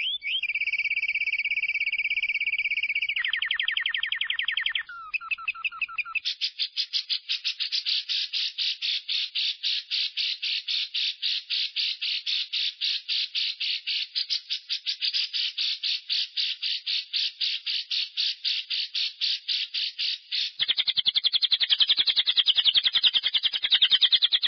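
Lovebird giving its long 'ngekek' chatter: a buzzy high note and a short lower phrase, then a long, even string of rapid high-pitched notes, several a second, held for many seconds without a break. Near the end the trill becomes denser and louder.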